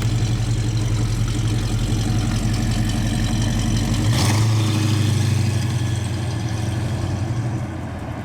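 Rebuilt 289 cubic-inch Ford V8 idling with a steady, pulsing exhaust note. About four seconds in there is a brief change, such as a small blip of the throttle, before it settles again.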